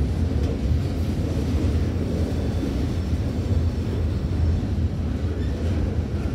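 Freight train's loaded flatcars rolling steadily past through a grade crossing, wheels on rail making a loud, continuous low rumble.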